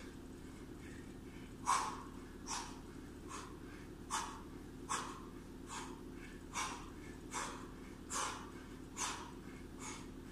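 A man's sharp, forceful exhalations in a steady rhythm, one with each crunch during a set of sit-ups, about one every 0.8 seconds, starting about two seconds in.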